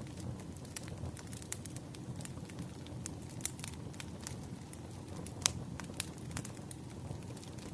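Firewood burning and crackling: irregular sharp pops, a few louder ones in the second half, over a steady low rumble of the fire.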